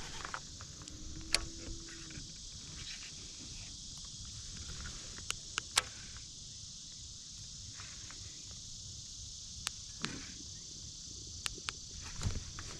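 Scattered sharp clicks and knocks of fishing gear handled in a kayak, over a steady high hiss, with a brief low hum about a second in.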